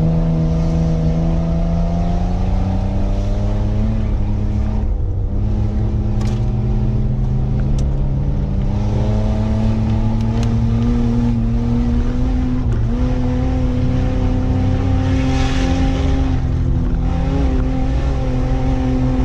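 Mitsubishi Pajero's 3.0-litre V6 petrol engine running as it drives, heard from inside the cabin. Its pitch climbs slowly as the revs rise, with brief dips about five and thirteen seconds in.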